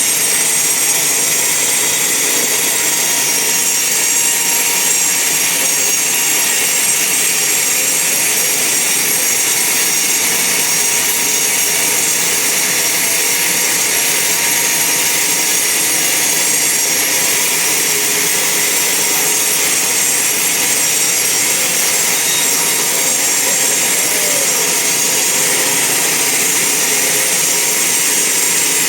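Band sawmill running steadily, its blade cutting through a log: a loud, even, high-pitched whine and hiss that does not let up.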